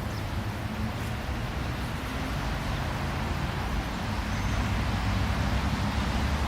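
Steady low rumble of road traffic, growing a little louder toward the end as a vehicle draws nearer.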